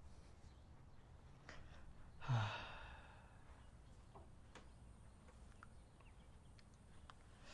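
A man sighs once, about two seconds in: a short breathy exhale with a low voiced tone that falls away. Otherwise only a faint steady background with a few faint clicks.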